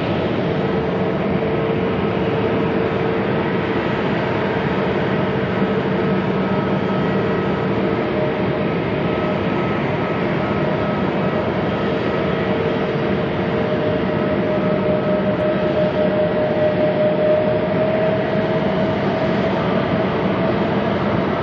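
Jet engine noise from an Airbus A321neo's CFM LEAP-1A turbofans: a steady rush with several whining tones over it. Around two-thirds of the way through, one tone rises slightly and the sound grows a little louder.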